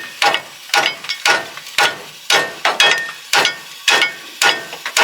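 A hammer striking a jammed metal part about twice a second, ten blows in all, each ringing briefly, as someone tries to drive the stuck part out.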